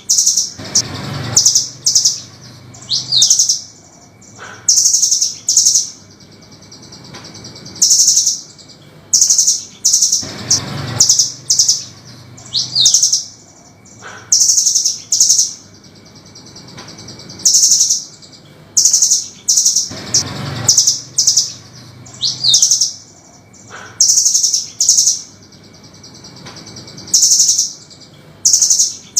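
Velvet-fronted nuthatch (burung rambatan) calling: short bursts of sharp, very high, rapid chirps with an occasional quick sweeping note between them. The same sequence repeats about every nine and a half seconds as a loop, with a short low thump near the start of each repeat.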